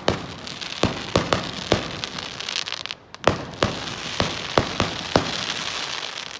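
Fireworks going off: a string of sharp bangs with a dense crackling between them, starting abruptly and stopping near the end.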